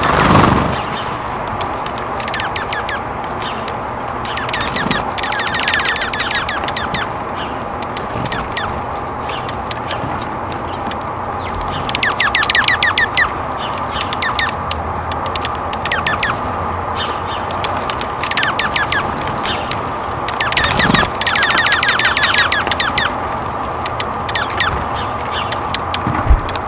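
Wild birds calling outdoors: short high chips scattered throughout and several rapid chattering bursts, the loudest about midway. A brief knock sounds at the start and again near the end.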